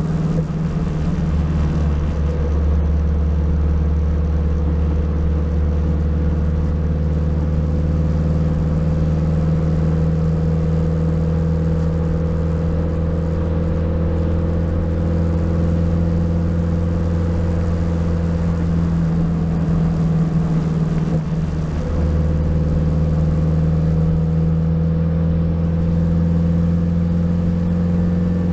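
Turbocharged K20 four-cylinder in an EK Honda Civic running at a steady engine speed while driving, with a brief drop in the engine note about two-thirds of the way through.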